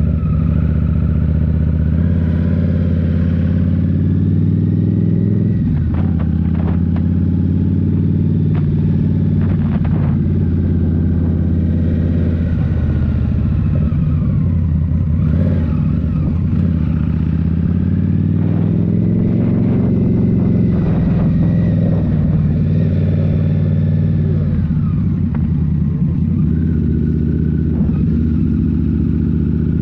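Indian Scout Rogue's 69 cu-in V-twin, breathing through a Rinehart slip-on exhaust, running under way, its note rising and falling with the throttle. A few short clicks are heard now and then over the engine.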